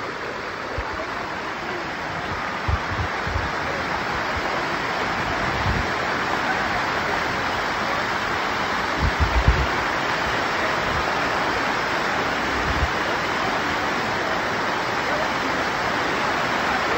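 Steady rush of water cascading over the rocks of Dunn's River Falls, heard up close, with a few low thumps from the phone being handled, loudest about nine seconds in.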